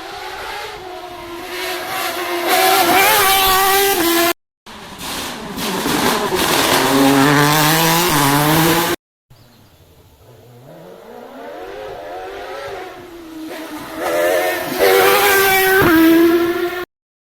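Rally cars at full throttle on a stage, engines revving up and down through the gears as they come past, in three separate passes cut hard one after another. The last car grows louder as it approaches, and the sound stops abruptly near the end.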